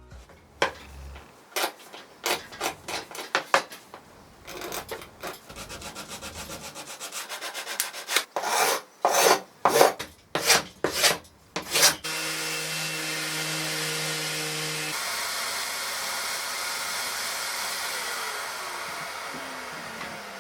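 Hand rubbing strokes on the oak chair's wood, irregular at first, then louder and quicker, about two a second, before they stop about twelve seconds in. A steady machine hiss follows, with a low hum during its first few seconds.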